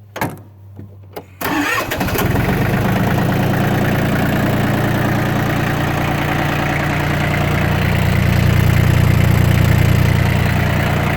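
Yanmar FX18 tractor's three-cylinder diesel engine starting after a couple of clicks, catching about a second and a half in and then running steadily and smoothly at idle, a little louder near the end.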